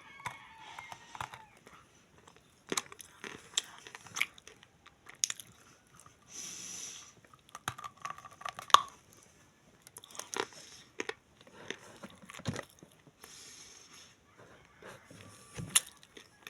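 Close-up crunching and chewing of clay being eaten: irregular sharp crunches as pieces are bitten, roughly one a second, with softer grinding chews between.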